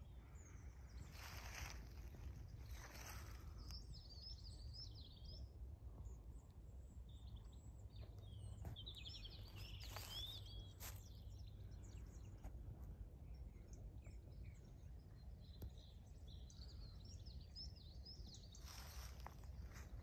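Faint songbirds twittering in several short high phrases over a steady low outdoor background rumble, with a few soft footsteps on grass near the start, in the middle and near the end.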